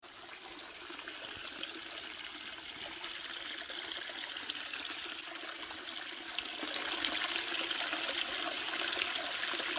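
Steady rushing of running water, growing a little louder about two-thirds of the way through.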